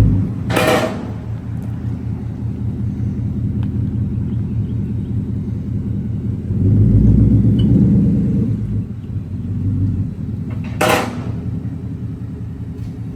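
2024 Mustang GT's 5.0 V8 idling through a muffler-delete exhaust, with a brief swell in revs about seven seconds in. Two sharp knocks cut in, one near the start and one near the end.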